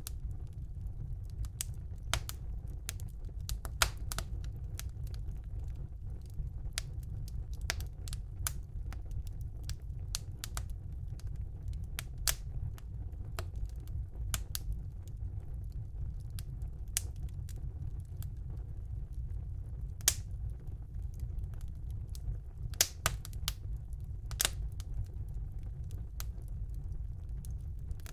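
Wood fire burning in a fireplace, crackling with irregular sharp pops over a low steady rumble; a few pops stand out louder, about four seconds in and several more in the second half.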